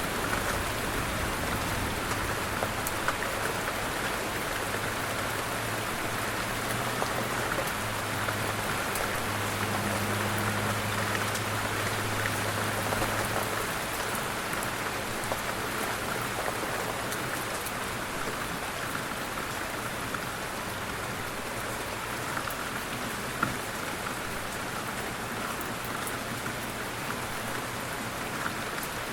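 Light rain falling steadily, with scattered individual drops ticking. A faint low hum sits underneath, a little stronger about a third of the way through.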